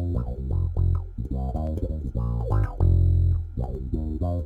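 Electric bass guitar playing a quick line of plucked notes, with one longer, louder held note about three seconds in.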